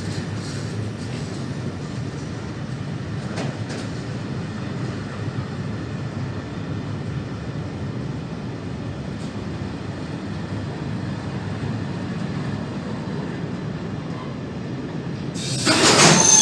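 Train rolling past, its wagons giving a steady low rumble with a few faint clicks. About a second before the end the noise jumps suddenly much louder.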